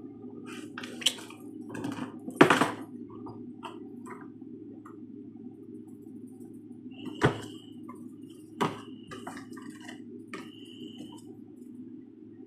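Rummaging through a drawer: scattered knocks and clatter of objects being moved, the loudest about two and a half seconds in, with a few short high squeaks in the second half, over a steady low hum.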